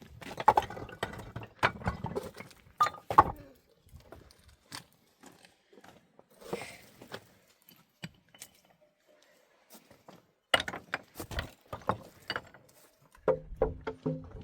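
Irregular knocks and clinks of hard objects, in clusters near the start and again in the second half, with quieter gaps between.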